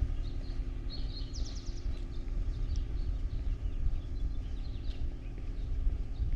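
Small birds chirping, with a quick trill about a second and a half in, over a steady low outdoor rumble.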